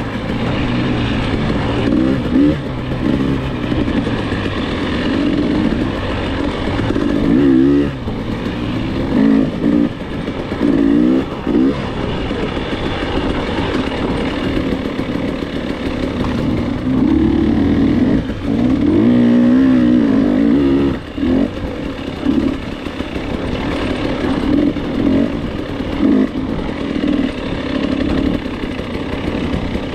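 Dirt bike engine revving up and down under the throttle, its pitch climbing and dropping every second or two with short dips as the rider backs off.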